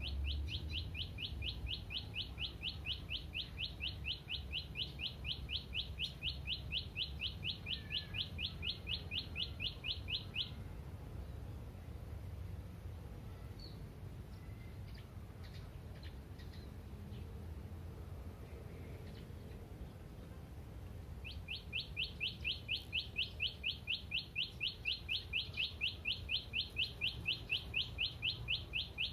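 A bird's rapid, very regular chirping: a long train of short sweeping notes, about four or five a second, that stops about ten seconds in and starts again about twenty-one seconds in. A low rumble of wind or handling noise sits underneath.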